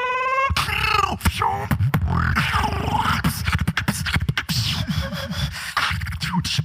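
A solo beatbox performance: a steady vocal bass line under rapid clicks and snare-like hits, with a short rising sung tone at the very start.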